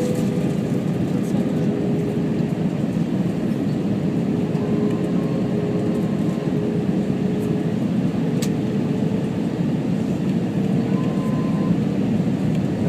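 Steady noise of an Airbus A321 airliner in flight: an even rumble with a faint held hum, heard inside the cabin.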